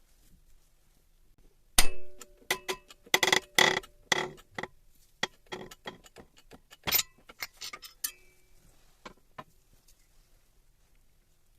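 Metal parts and tools clinking and knocking against each other: a run of sharp strikes, some ringing briefly, the first about two seconds in the loudest, thinning out to a few taps near the end.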